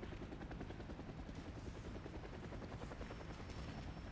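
Helicopter rotor chopping steadily at a moderate, unchanging level.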